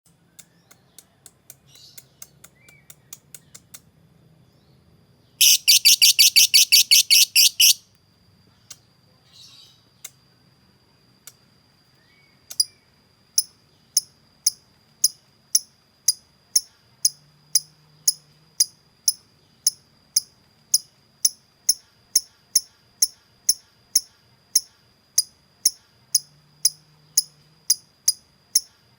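Lovebird calling: scattered sharp ticking chirps, then a loud, rapid chattering trill lasting about two seconds (the 'ngekek'). From about halfway on it ticks in a steady rhythm of about two to three sharp chirps a second (the 'ngetik').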